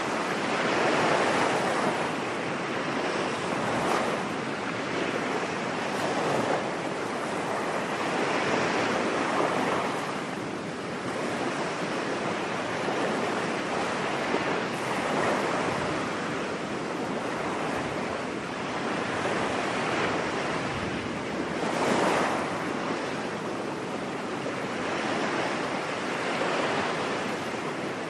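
Ocean surf washing onto a beach, a steady hiss that swells and fades as waves break every few seconds.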